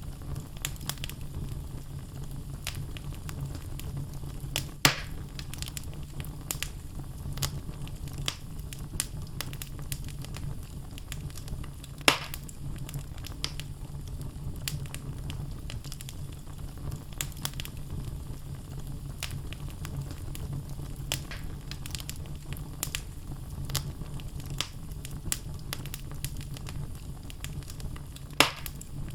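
Wood logs burning in a fireplace: a steady low rush of flame with frequent small crackles, and three loud sharp pops spread through.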